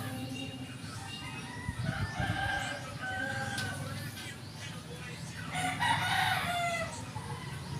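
Chickens calling: short pitched calls about two to three and a half seconds in, then a louder, longer crow-like call around six seconds in.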